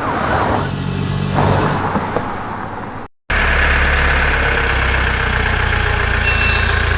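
A vehicle engine sound: about three seconds of noisy engine commotion, then after a brief gap a steady low engine idle.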